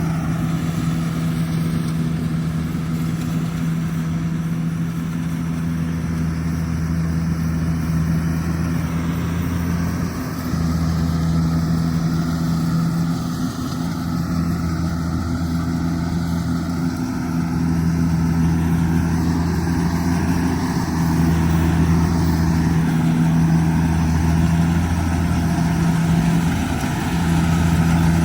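Kubota DC70G Plus combine harvester's diesel engine running steadily, its low hum swelling and easing a little from time to time.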